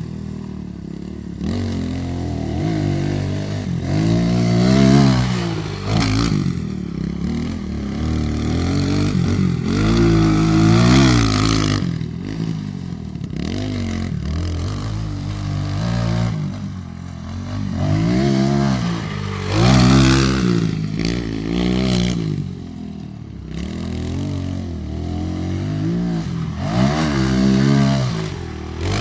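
110cc dirt bike engine revving up and easing off over and over as it is ridden around a track. The engine note climbs and falls every few seconds and grows louder and quieter as the bike comes near and goes away.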